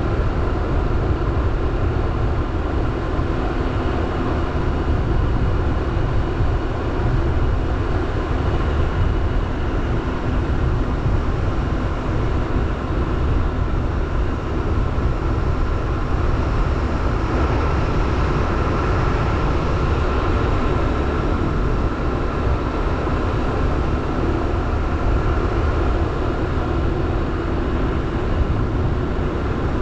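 Motorbike running at a steady cruising speed, a constant engine hum with steady road and wind noise and no change in pace.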